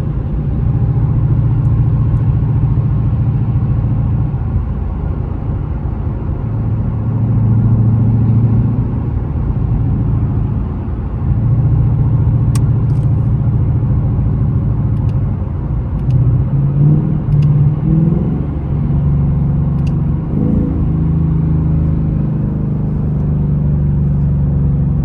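Ford Mustang GT's 5.0 V8 running at low speed with a deep, steady exhaust note, its pitch shifting as the car rolls on and off the throttle, with a few short rises in revs past the middle.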